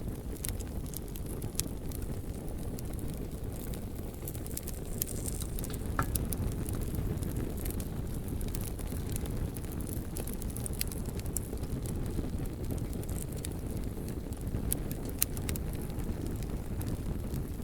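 Bonfire of burning logs crackling: frequent short, sharp pops and snaps over a steady low rumble, with one louder pop about six seconds in.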